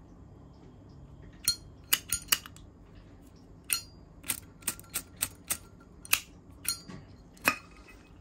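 Zippo lighter being handled: its metal lid flicked open and snapped shut again and again, about a dozen sharp metallic clicks with a bright ring, some in quick pairs.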